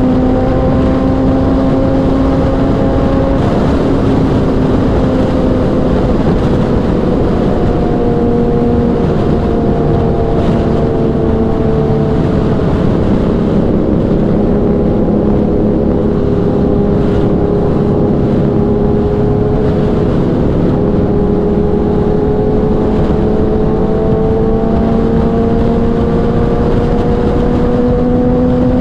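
Kawasaki inline-four sportbike engine running at steady high revs at highway speed, its pitch easing down slightly in the middle and then slowly climbing again, over heavy wind rush.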